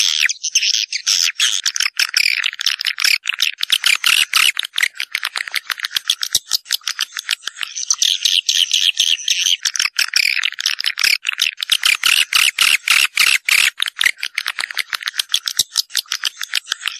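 Swiftlets calling: a dense, continuous chatter of rapid, high clicking chirps. It is a recorded swiftlet lure call of the kind played to draw swiftlets into a nesting house.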